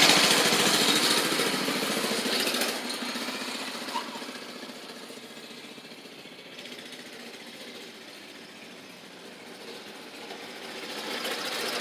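Gas mini bike's small engine running, fading away over the first several seconds and growing louder again near the end as it comes back. A short tick about four seconds in.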